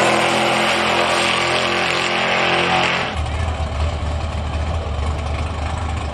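Drag-race engine running hard at high revs, its note holding steady, then cutting off abruptly about three seconds in, leaving a low drone.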